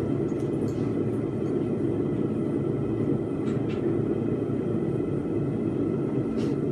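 Blacksmith's forge running with a steady, even roar, with a couple of faint light clinks.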